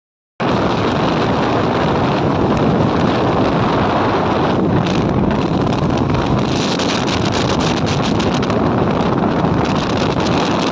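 Wind rushing and buffeting over the microphone of a moving motorcycle, a loud steady roar with the ride's engine and road noise blended underneath. It starts abruptly about half a second in.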